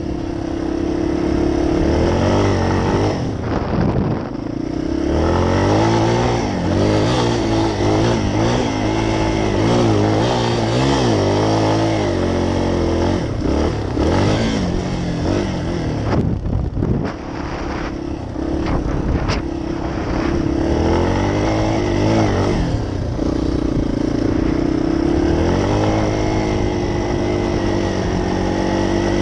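Dirt bike engine being ridden hard, its revs rising and falling with the throttle, holding steadier near the start and again about three quarters of the way through.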